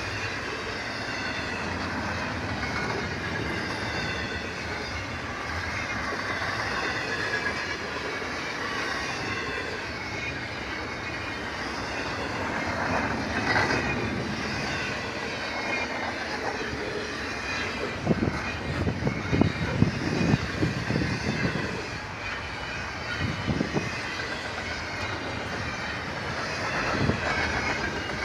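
Freight train cars rolling past, the wheels squealing in several high tones over a steady rumble. Clusters of sharp clacks come in the second half as wheels cross rail joints.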